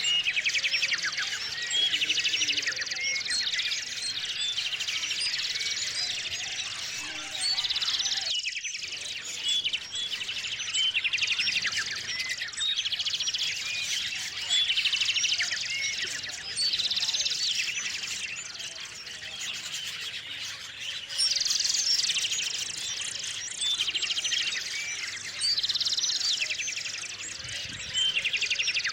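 A chorus of small songbirds chirping and trilling, many calls overlapping without pause, with one short break about eight seconds in.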